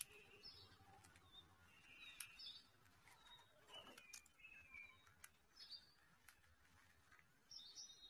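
Faint scattered bird chirps and short high calls, with a few sharp ticks among them.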